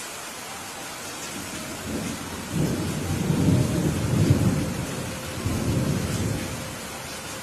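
Steady rain hissing, with a roll of thunder that builds about two seconds in, swells twice and fades away near the end.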